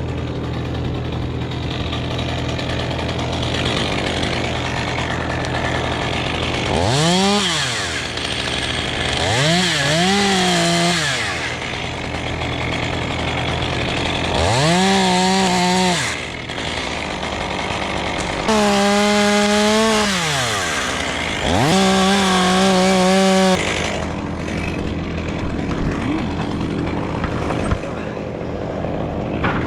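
Two-stroke chainsaw revved up five times, each time rising to a high, steady pitch, holding for a second or two and dropping back. Another engine idles steadily underneath throughout.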